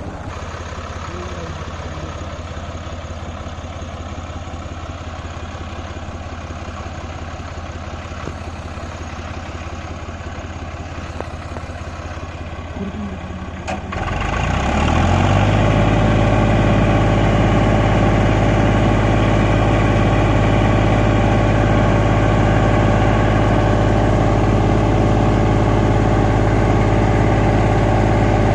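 Tractor diesel engine running steadily at low speed. About halfway through there is a click, then the engine revs up quickly and settles at a louder, higher steady speed.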